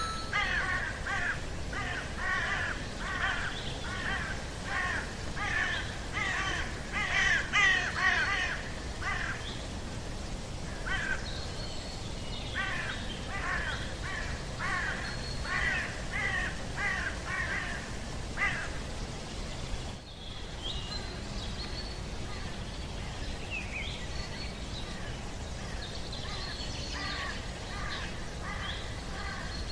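Birds calling: short, harsh calls repeated about twice a second, which stop about eighteen seconds in; after a brief drop near twenty seconds only fainter, scattered calls remain over a steady outdoor hiss.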